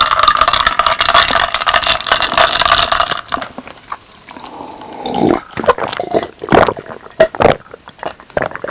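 Spoon stirring and scraping in a bowl for about three seconds, then close-miked wet chewing and smacking of mouthfuls of chicken and rice.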